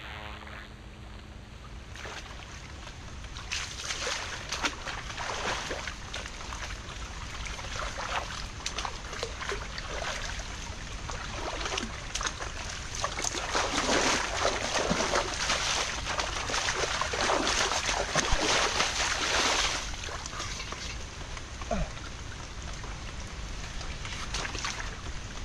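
Water splashing and sloshing as a person washes himself in shallow water, in irregular bursts that are loudest in the middle stretch.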